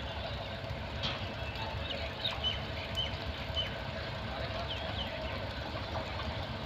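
Railway station ambience as a locomotive-hauled passenger train approaches from a distance: a steady low rumble with a faint murmur of voices and a few short high chirps.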